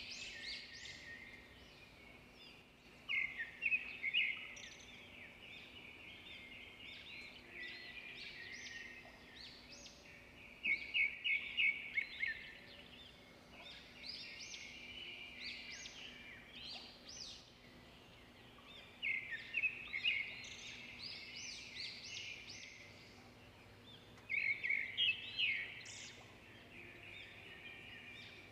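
Small birds chirping in bursts of quick, high chirps, with four louder bursts a few seconds apart, over a faint steady hum.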